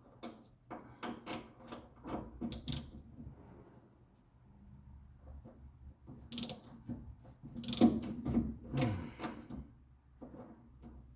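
Socket ratchet wrench clicking in two spells of short strokes, with metal knocks, as a nut on a Triumph TR3 steering rack's long-threaded fastening is turned in a cramped space.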